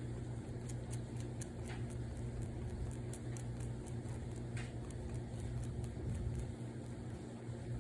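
A cat suckling on something, making small wet smacking clicks a few times a second over a steady low hum.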